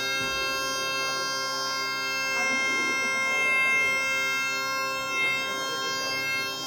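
Galician bagpipe (gaita) sounding a steady, unchanging held note over its drone.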